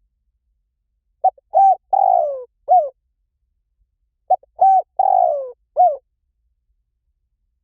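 Spotted dove cooing: two song phrases about three seconds apart, each a few short coos, then a long coo that falls in pitch and a short final note.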